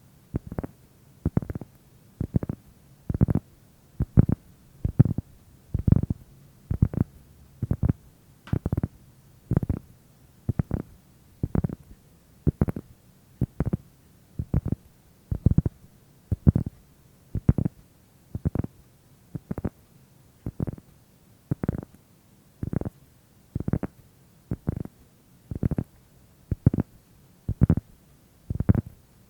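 Soft, muffled low thumps repeating evenly about once a second, like slow ASMR tapping or patting close to the microphone.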